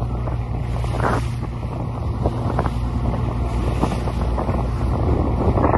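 Wildfire burning: irregular crackles and pops over a steady low rumble.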